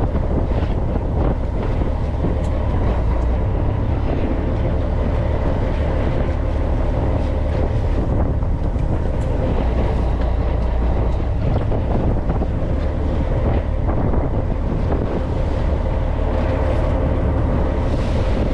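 Fishing boat's engine running with a steady low drone, mixed with wind buffeting the microphone.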